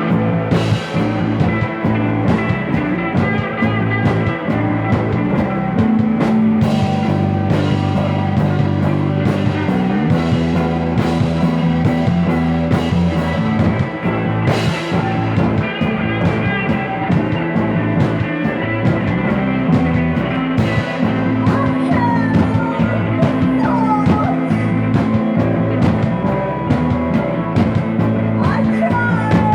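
Psychedelic rock music playing loudly and steadily: a band passage of held chords over regular drum and cymbal hits, with some bending lead lines in the last third.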